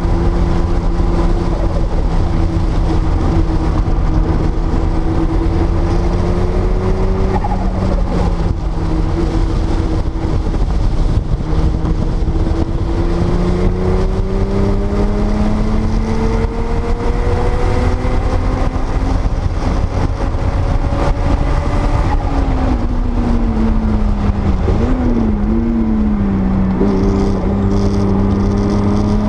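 1979 Porsche 930 Turbo's air-cooled turbocharged flat-six running at speed on a race track, its pitch climbing slowly as it pulls, dropping for a few seconds with a quick throttle blip near the end, then climbing again. A heavy low rumble of wind and road noise runs under it.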